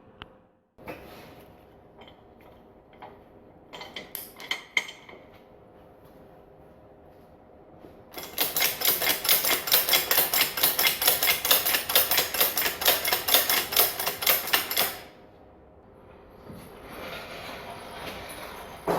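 A hand tool clicking rapidly and evenly for about seven seconds in the middle, with a few scattered metallic taps and knocks before it.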